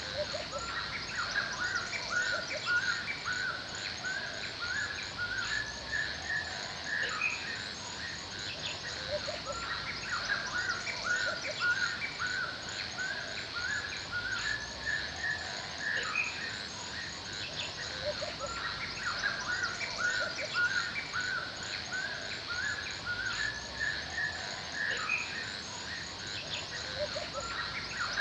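Forest ambience: small birds chirping in quick, repeated short calls, over a steady high-pitched trill.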